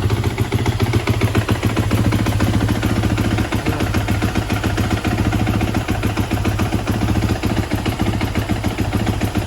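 An engine running steadily at a near-constant speed, with a dense rapid pulsing.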